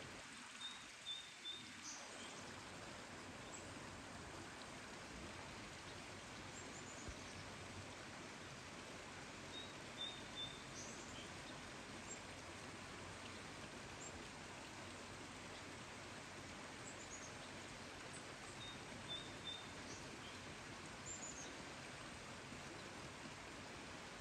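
Steady rain noise with a songbird calling in three short bouts about nine seconds apart, each a quick run of high notes.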